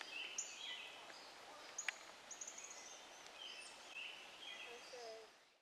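Faint birdsong over quiet outdoor ambience: many short, high chirps and whistles, with one sharp click about two seconds in. The sound fades out at the very end.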